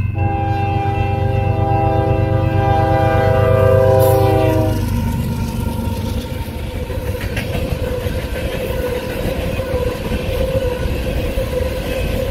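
Union Pacific diesel locomotive's air horn sounding one long chord of several notes over the rumble of the engine, cutting off about five seconds in; then the train's wheels clatter steadily over the rail joints as the cars roll past.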